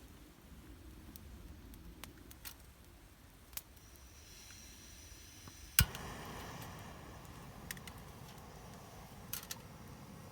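Wood campfire crackling, with scattered small snaps and one loud pop a little past halfway, after which the fire's hiss grows slightly louder.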